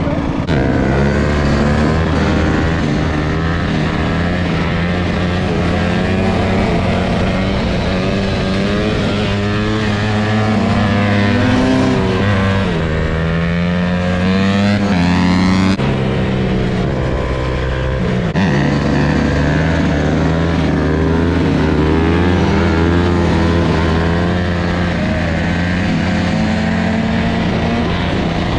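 Motorcycle engines running steadily, their pitch shifting as they are revved up and eased off, with a couple of rising revs midway through.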